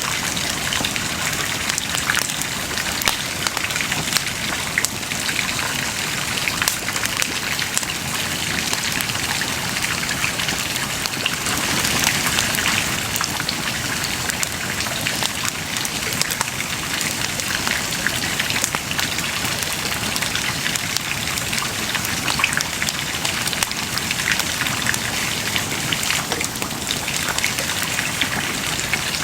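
Wood bonfire burning with a steady crackle, dense with small sharp pops and snaps.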